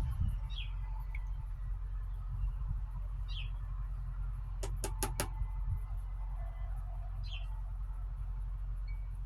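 A bird repeats a short falling chirp every three to four seconds over a steady low rumble. About halfway through come four quick taps.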